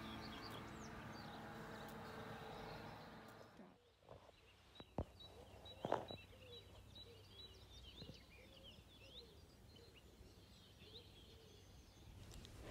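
Soft background music fades out over the first few seconds. Faint outdoor ambience with scattered small birds chirping follows, with two soft knocks near the middle.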